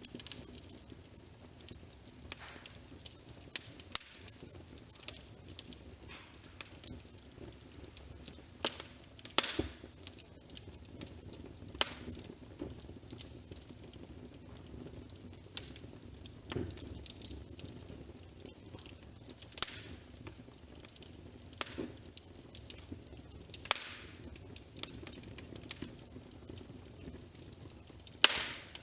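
Wood fire crackling: irregular sharp pops and crackles, a few louder than the rest, over a soft steady background.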